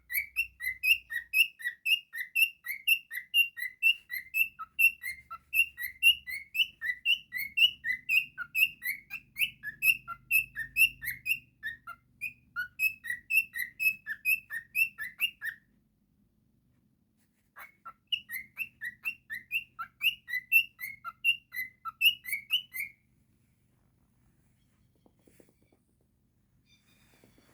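Pet cockatiel chirping rapidly and repetitively, about four short, high calls a second, in two long runs split by a pause of about two seconds, falling silent several seconds before the end.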